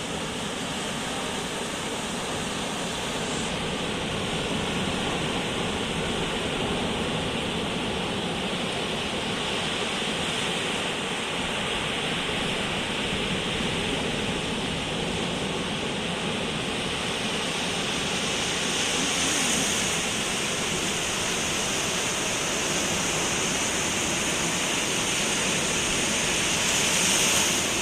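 Storm surf on the Mediterranean shore: a steady rush of breaking waves, swelling louder about ten seconds in, again near twenty seconds and near the end.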